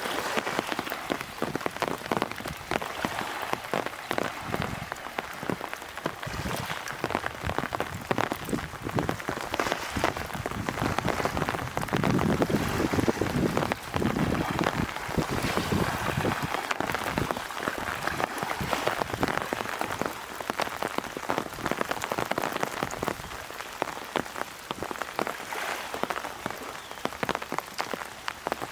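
Heavy wind-driven typhoon rain spattering in a dense patter of drops, with a louder low surge of wind noise between about twelve and fifteen seconds in.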